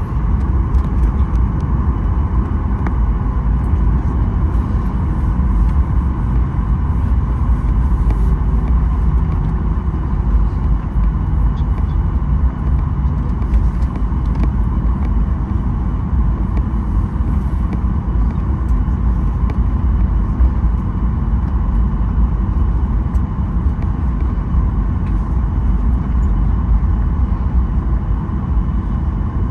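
Steady cabin rumble of a Boeing 737-900ER on the ground after landing: its CFM56-7B engines at idle and the airframe rolling along the taxiway, heard from a window seat inside the cabin.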